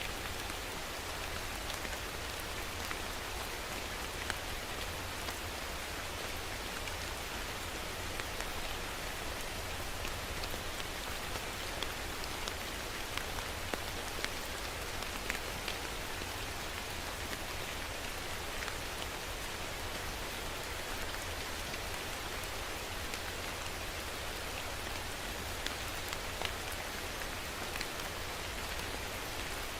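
Steady rain falling, with sharper individual drop hits scattered throughout.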